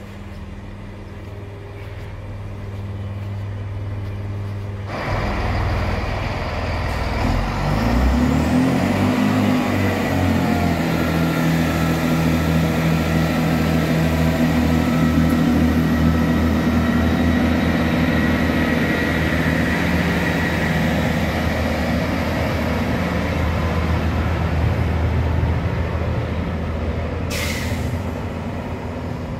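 Great Western Railway Turbo diesel multiple unit running close along the platform. Its underfloor diesel engines come in loud about five seconds in, with a high whine that rises and then holds steady. A short hiss comes near the end.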